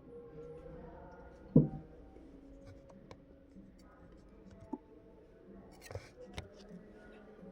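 Handling noises from small parts being worked on by hand: one sharp knock about one and a half seconds in, then several light clicks.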